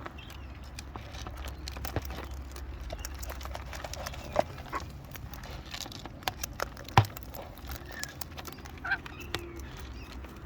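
Wild cockatoos feeding on seed: irregular clicks and taps of beaks and claws, with one louder knock about seven seconds in, over a steady low rumble.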